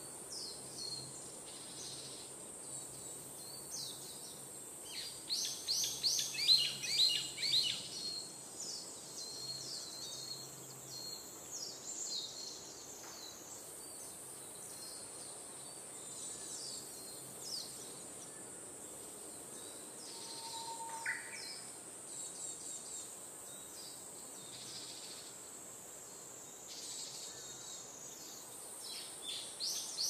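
Songbirds chirping and trilling in quick, high bursts, busiest about five to eight seconds in and again near the end, over a steady high hiss.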